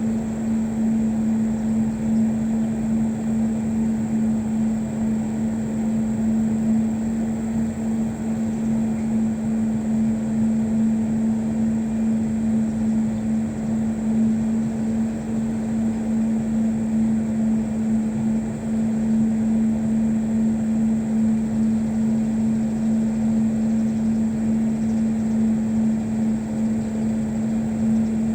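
A motor running steadily: an even, unbroken drone with a constant low hum.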